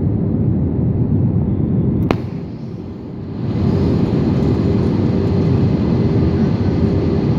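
Airbus A320 engines and airflow heard inside the passenger cabin as a steady loud rumble. A sharp click comes about two seconds in, the rumble dips for about a second, then picks up again with a steady hum on top.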